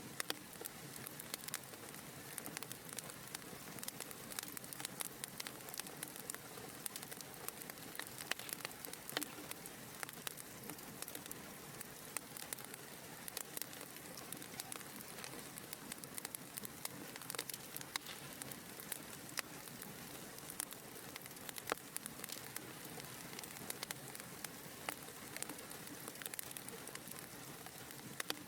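Wood fire crackling in a fireplace: a steady soft hiss with many sharp, irregular pops and snaps.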